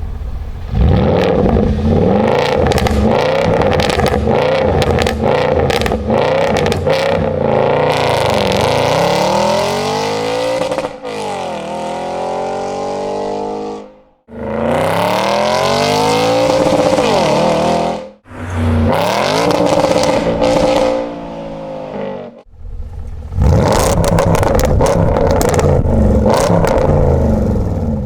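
Audi S5's 4.2-litre V8 with a Capristo exhaust, revving hard: the engine note climbs and falls in pitch several times, with short breaks of near quiet about halfway through and again twice more before the end.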